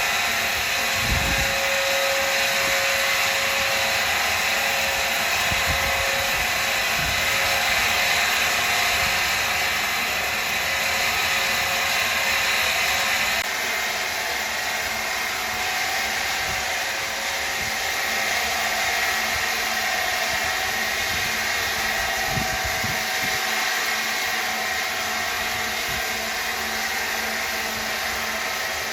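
A machine running steadily with a continuous whirring hiss and a faint whine. The sound changes abruptly about halfway through.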